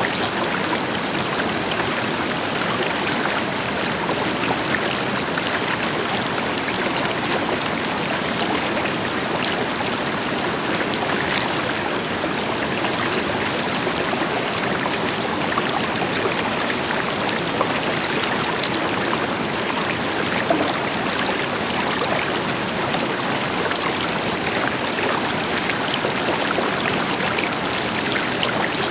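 River water flowing over rocks, a steady rushing with small splashes and trickles, with the deeper rush of a waterfall behind it.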